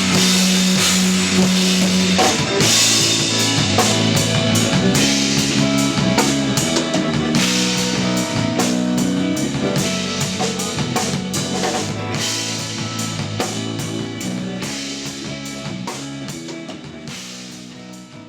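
Live instrumental post-rock from a trio of drum kit, electric bass and electric guitar, with the drums prominent: dense drum and cymbal strokes over held bass notes that change pitch about two seconds in. The music fades out steadily over the last several seconds.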